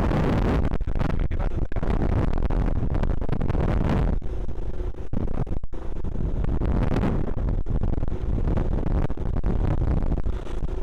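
Yamaha R15's single-cylinder engine running steadily through a leaking exhaust silencer, with wind buffeting the microphone.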